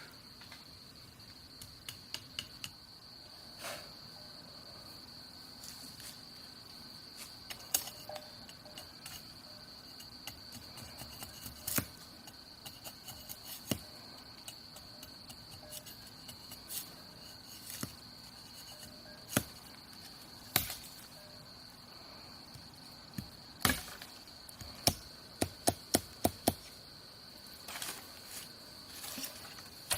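A steady high insect trill, crickets or similar, with irregular sharp clicks and knocks over it, including a quick run of them near the end.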